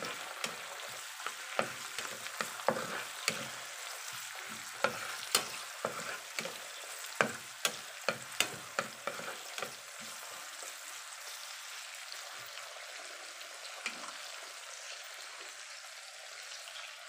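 Garlic, onion and tomato sizzling in hot oil in a pan, with a wooden spatula scraping and knocking against the pan as they are stirred for about the first ten seconds. After that the frying sizzle goes on steadily with only the odd knock.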